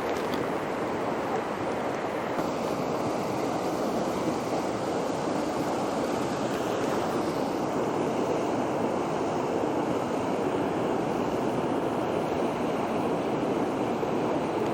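Steady rush of a steep mountain trout stream, water running and tumbling over rocks and cascades.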